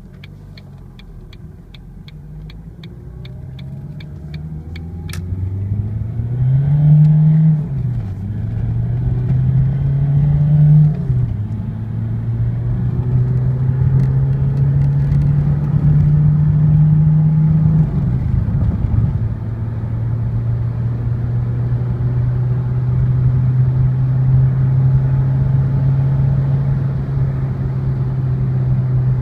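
Ford Mondeo 2.2 TDCi four-cylinder turbodiesel accelerating hard through the gears. The engine note climbs and drops back at three upshifts, then holds a steadier, slowly rising drone. A regular ticking runs through the first five seconds.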